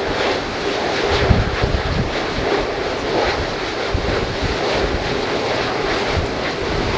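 Airliner engines running steadily, overlaid by strong wind buffeting the microphone in low, irregular thumps that the wind muff cannot stop.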